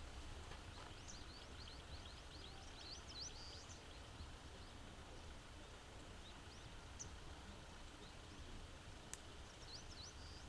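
Faint outdoor ambience: small birds chirping, a quick run of short rising chirps from about a second in to about four seconds, and again near the end, over a steady low rumble. A single sharp click about nine seconds in.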